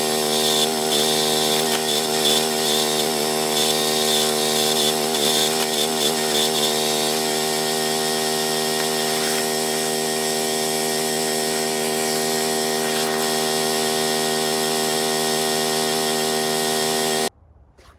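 Small engine of a towed backhoe running steadily, its pitch wavering a little for the first several seconds before settling; the sound cuts off suddenly near the end.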